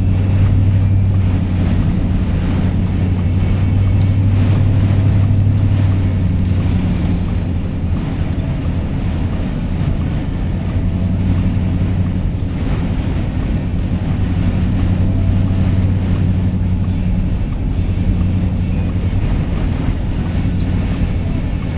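Inside a moving car: a steady low engine and road drone, with wind noise over it in strong gusty wind.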